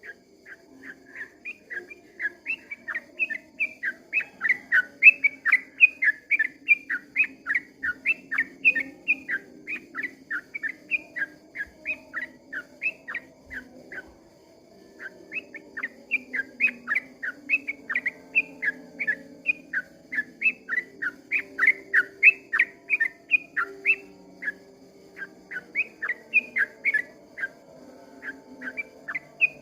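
Yellow-vented bulbul (trucukan) singing a long, rapid run of short, falling whistled notes, about three or four a second, breaking off for about a second midway and then resuming.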